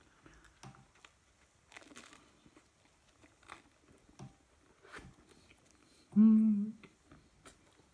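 Close-up chewing and biting of homemade pizza crust: faint wet mouth clicks and small crunches. About six seconds in there is one short, loud vocal sound from the eater, with no words.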